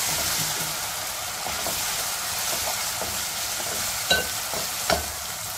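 Onions and ginger-garlic paste sizzling in hot oil in a metal pot while being stirred with a spatula, a steady frying hiss. Two sharp knocks of the spatula against the pot come about four and five seconds in.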